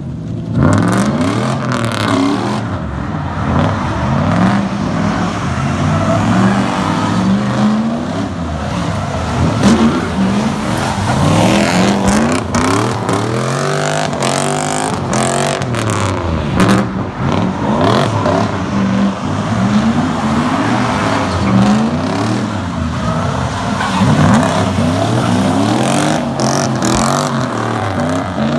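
Drift car's engine revving up and down over and over as the car slides around on wet pavement.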